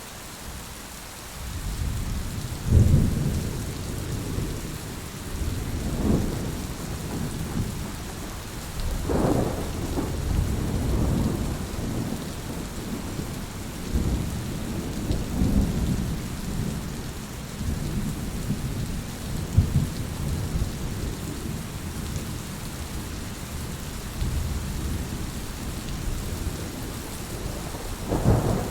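Heavy rain pouring steadily, with thunder rumbling in low from about a second and a half in. The rumbles swell several times, including near the end.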